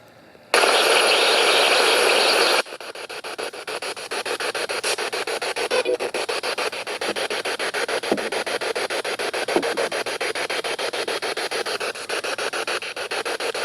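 SB7 spirit box radio sweeping the band: a loud burst of static starts about half a second in and lasts about two seconds, then turns into fast, choppy static pulses, several a second, as it skips from station to station.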